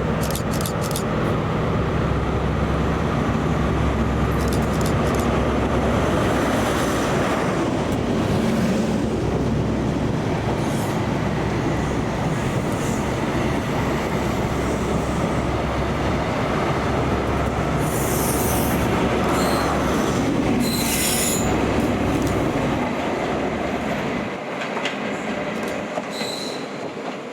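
Class 43 HST diesel power car running on the line, with a steady low engine drone and wheel-on-rail noise, brief high-pitched wheel squeals about two-thirds of the way through, and the sound dropping away near the end as the train draws off.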